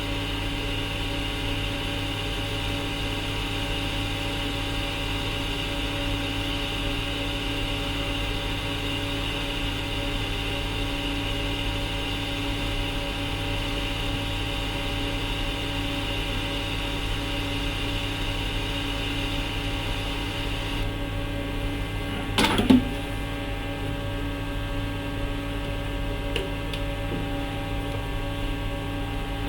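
Steady electrical mains hum with a higher whine over it; the whine drops away about 21 seconds in, and a single sharp knock follows about a second later.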